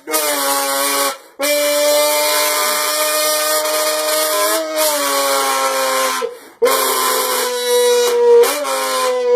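A person imitating a race car engine with their voice: long held, droning notes that dip slightly in pitch, broken by a short breath about a second in and another about six and a half seconds in.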